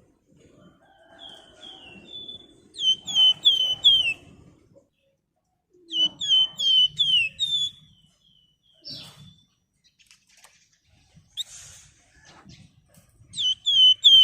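Flamboyan songbird calling in three quick bursts of four or five sharp, down-slurred whistled notes. The bursts come about three seconds in, again about six seconds in, and near the end.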